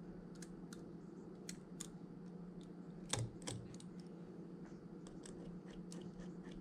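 Light, irregular clicks and taps of small repair tools against phone parts, with one louder knock about three seconds in, over a steady low hum.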